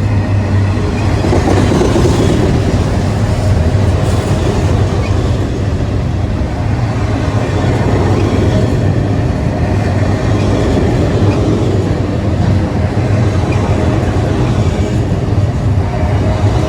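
Railroad train rolling past close by: a loud, steady rumble of wheels on the rails.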